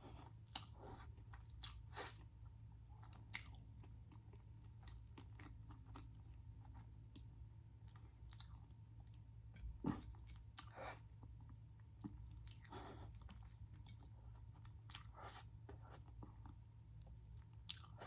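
Close-up chewing of a crispy fried Korean corn dog, faint, with scattered crisp crunches and bites, the loudest about ten seconds in.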